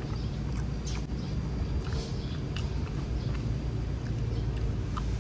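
Close-miked chewing of a bite of red pork sausage: irregular short wet mouth clicks over a steady low background rumble.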